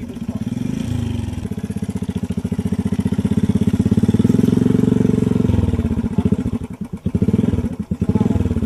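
Motorcycle-type engine running steadily with a rapid, even chug of firing pulses; its loudness drops sharply twice near the end before picking up again.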